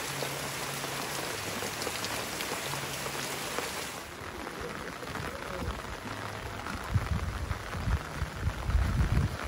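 Steady rain falling, an even hiss of many drops. About four seconds in the hiss becomes quieter, and low dull thumps come in near the end.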